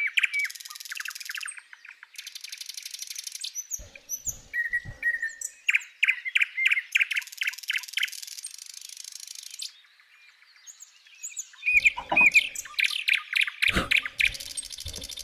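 Small birds chirping in quick repeated runs, with a high, buzzing insect trill that comes and goes in several bursts. A few low knocks sound now and then.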